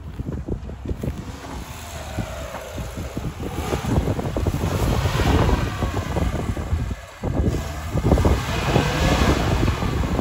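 Lada Niva's four-cylinder engine revving up and down as the 4x4 crawls over dirt mounds, with heavy wind buffeting the microphone.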